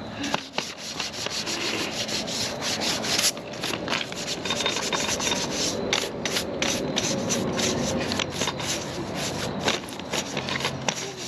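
Rapid, irregular rubbing or scrubbing strokes, like a surface being brushed or sanded by hand.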